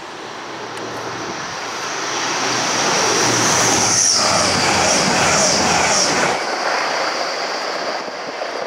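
Train passing close by: the noise builds over a few seconds and is loudest with a high-pitched whine on top, then the low rumble stops sharply about six seconds in and the rest fades away.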